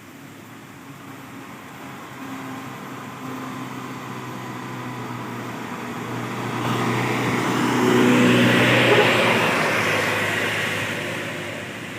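Truck's diesel engine working hard up a steep climb, with a steady engine note that grows louder as it approaches, is loudest about two-thirds of the way through, then fades as it passes.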